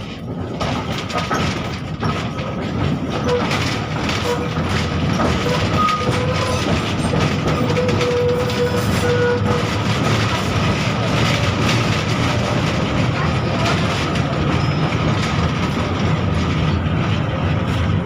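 Soviet 71-605 (KTM-5M3) tram running along the track, with DK-259 traction motors and rheostat-contactor control. It grows louder over the first two seconds as it picks up speed, then runs steadily with wheel clicks over rail joints. A faint tone comes and goes in the middle.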